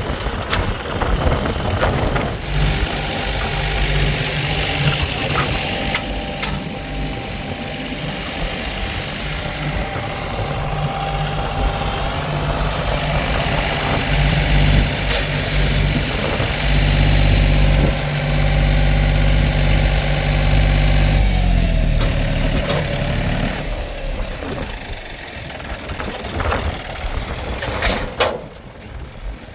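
Heavy diesel engine of earth-moving machinery running at steady high revs, then its speed drops about two-thirds of the way through and it settles lower. A few sharp knocks and clanks come through.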